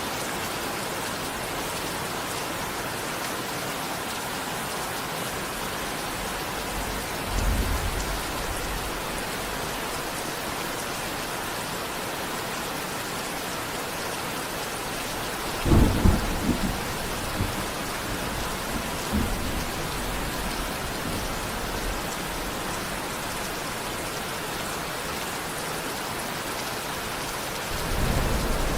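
Steady heavy rainfall with rolls of thunder: a low rumble about seven seconds in, a louder clap and rumble at about sixteen seconds that trails off over the next few seconds, and another rumble building near the end.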